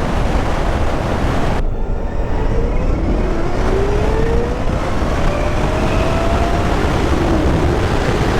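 Wind buffeting the microphone at road speed, with the Zero SR/F electric motorcycle's motor whine rising steadily in pitch from about two seconds in as the bike accelerates, a sci-fi-like sound of things whirling up.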